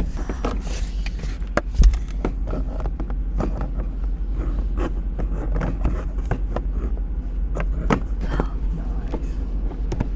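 Clicks, knocks and scraping from objects being handled and put back in place, with one heavier thump about two seconds in, over a steady low rumble.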